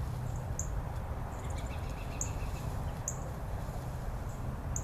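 A bird's short, high chirps, four of them spaced irregularly, over a steady low rumble.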